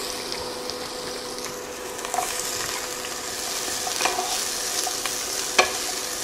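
Red bell pepper strips sizzling in hot toasted sesame oil in a skillet, stirred with a wooden spatula that clicks against the pan a few times.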